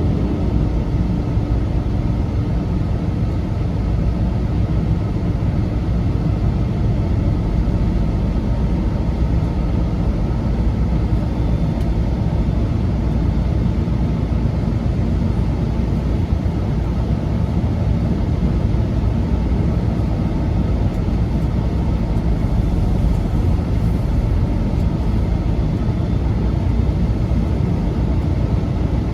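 Peterbilt semi truck running steadily down the road: a constant low engine and road drone with no changes in pitch or level.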